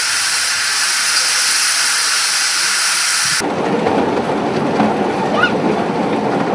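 Miniature 2-4-0 tank steam locomotive letting off a steady hiss of steam. About three seconds in it gives way abruptly to the lower rumble and rattle of the miniature train running.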